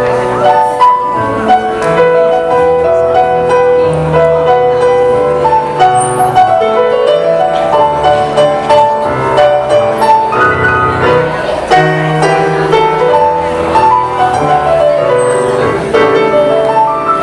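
Instrumental break in a pop ballad, piano playing a stepping melody over a steady bass line, with no singing.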